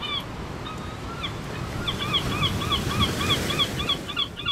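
Surf washing in, swelling about three seconds in, with a bird calling over it: a few short calls, then from about two seconds in a quick run of short rising-and-falling calls, about four a second.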